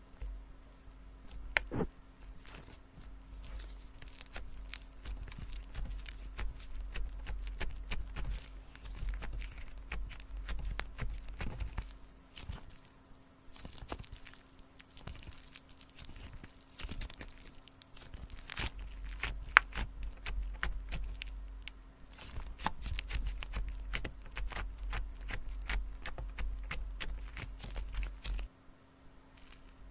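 Slime being squished and worked by hand, a dense run of crackly clicks and pops with a quieter lull in the middle.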